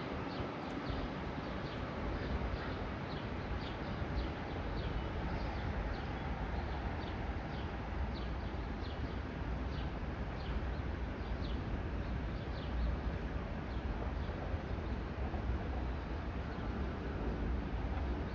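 Small birds chirping repeatedly in short high notes over a steady low rumble outdoors.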